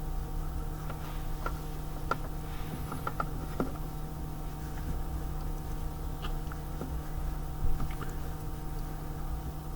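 Scattered light clicks and taps of hand tools and small parts being handled during car repair work, over a steady hum with a few fixed tones; one louder bump about three-quarters of the way through.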